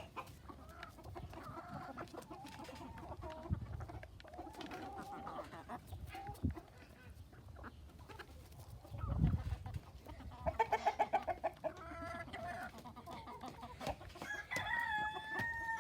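Backyard chickens clucking and calling as they eat, with a quick run of loud clucks about eleven seconds in and a dull low bump just before it.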